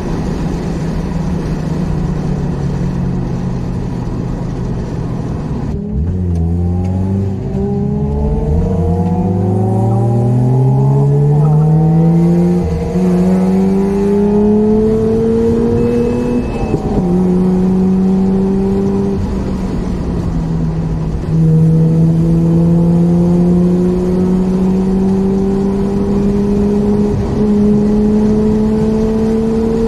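Mazda RX-8's twin-rotor Renesis rotary engine heard from inside the cabin, pulling hard through the gears: its pitch climbs steadily in each gear and drops sharply at three gear changes.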